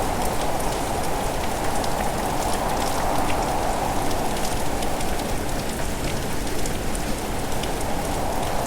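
Steady rain: a dense, even patter of drops.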